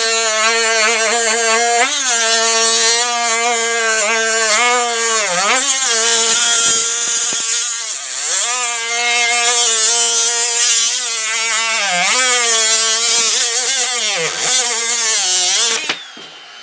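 Dremel rotary tool with a fiberglass cut-off wheel cutting through plywood: a steady high whine with a hiss of cutting. The pitch sags several times as the wheel bogs under load, then picks back up. It shuts off abruptly near the end.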